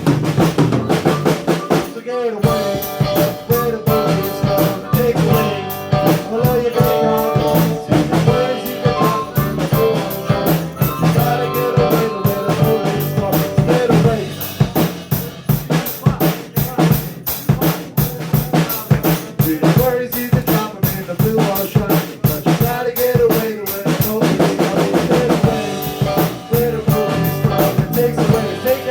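Live band playing a country song, the drum kit prominent with steady snare and bass drum hits over guitar and bass.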